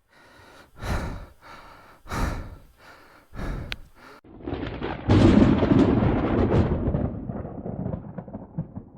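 A rider breathing hard, three heavy breaths. About four seconds in comes a low rumbling noise without a pitch, which swells and then slowly fades.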